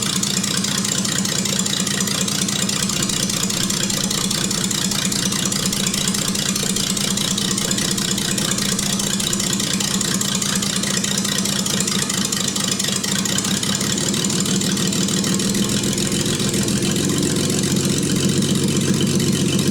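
An engine idling steadily with an even pulse; about fifteen seconds in its note changes and it runs a little louder toward the end.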